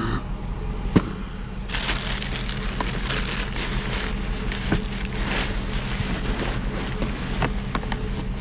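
Rustling and crinkling of junk being rummaged through and handled, with a sharp click about a second in and small knocks throughout, over a steady low hum.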